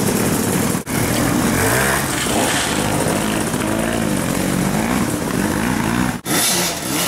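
Off-road motorcycle engine revving up and down over and over, its pitch rising and falling in quick swells, with two brief drop-outs about a second in and near the end.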